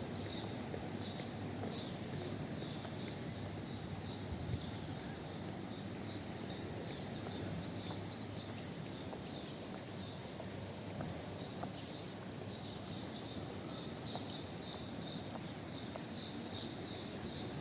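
Birds chirping repeatedly in short, high, falling notes over a steady low outdoor background.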